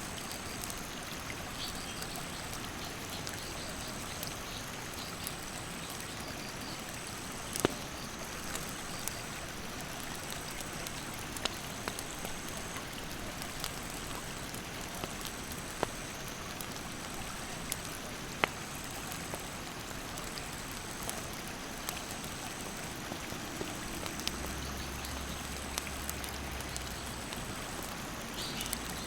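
Steady rush of a mountain stream with the occasional sharp pop and crackle of a wood campfire. A faint, high insect call repeats about every second and a half.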